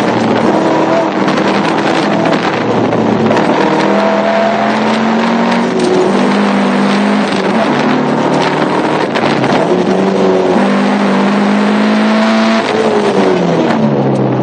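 Car engine heard from inside the cabin while being driven hard, its pitch repeatedly climbing and dropping as it revs and changes gear, over loud road and wind noise.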